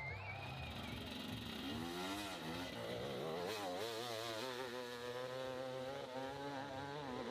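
Motorcycle engine revving on a steep hill climb, its pitch swooping up and down again and again as the throttle is worked, from about two seconds in.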